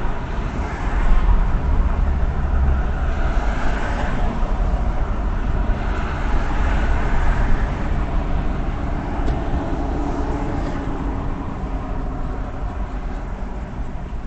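Steady road and engine rumble of a moving car, heard from inside the cabin, swelling slightly about a second in.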